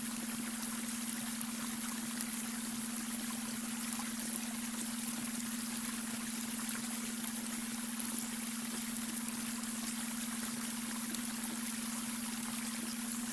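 Babbling brook: steady rushing, trickling water, with a steady low hum held under it, the added beta brainwave tone.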